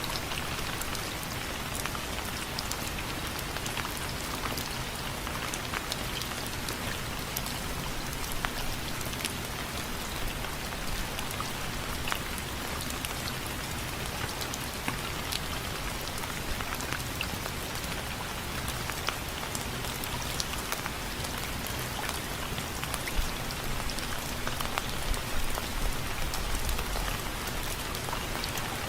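Steady rain with many separate drops ticking on window frames over a constant hiss.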